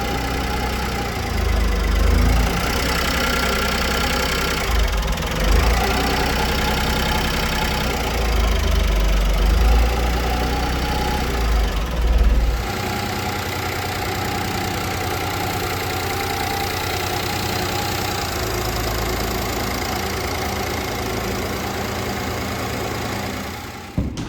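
Honda Acty kei truck's small three-cylinder engine idling. A heavy low rumble runs under it for the first twelve seconds or so and then stops, leaving a steady, even idle that fades just before the end.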